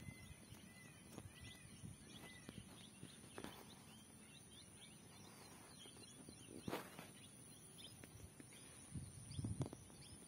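Faint outdoor ambience: a few short bird chirps, about three in the first couple of seconds, over a steady high-pitched hiss. A sharp click comes about seven seconds in, and a few low thumps come near the end.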